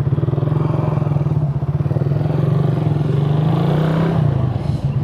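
Suzuki Raider 150 motorcycle engine running through its stock exhaust while riding, at a steady pitch that dips a little about four seconds in as it slows.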